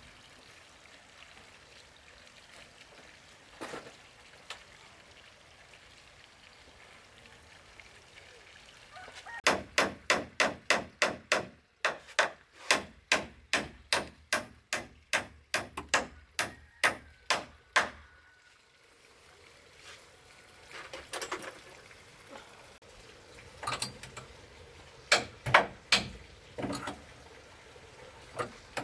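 Repeated sharp blows of a tool on wood, a fast run of about three strikes a second starting about ten seconds in and lasting some eight seconds, then a looser run of strikes near the end.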